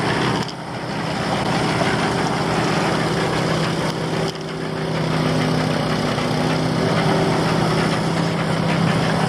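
A heavy construction machine's engine running steadily at idle, a low hum with a constant pitch over mechanical noise.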